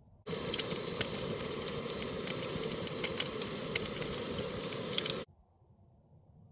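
Food frying in a pan: a steady sizzle with scattered small pops and crackles. It starts suddenly just after the start and cuts off sharply about five seconds in.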